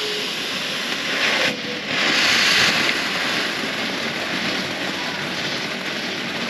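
A small ground firework, probably a fountain, hissing steadily as it sprays sparks, with two louder surges about one and two seconds in.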